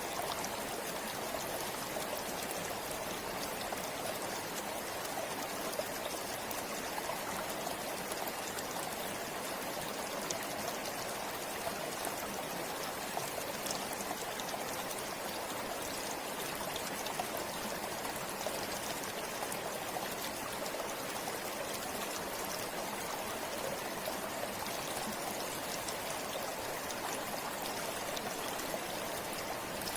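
River water flowing steadily over rocks, a constant rushing with small splashes and trickles.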